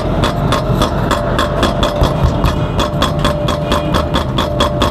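Fast, even mechanical knocking, about five knocks a second, over a steady low engine-like rumble and hum.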